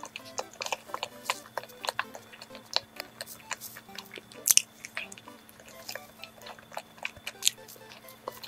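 Close-miked chewing and biting of soft cream-filled bread: wet mouth clicks and smacks throughout, with a sharper click about four and a half seconds in. Quiet background music underneath.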